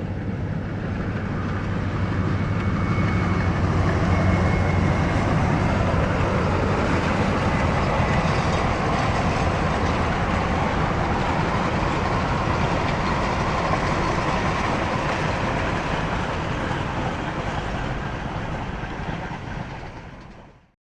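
Diesel-hauled passenger or freight train running past on the rails. It makes a steady rolling rumble, with a low locomotive engine hum strongest in the first few seconds. The sound fades near the end and then cuts off abruptly.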